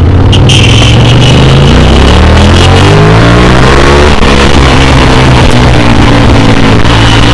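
Single-cylinder engine of a Bajaj Pulsar RS200 motorcycle, heard from the rider's helmet camera: it accelerates with pitch rising for about two seconds, then holds a steady speed, over heavy wind and road noise.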